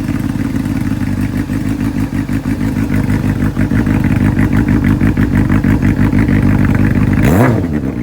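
Honda CB400 Super Four (NC39) inline-four with a Wyvern aftermarket exhaust, idling steadily, then one quick throttle blip near the end that rises and falls in pitch.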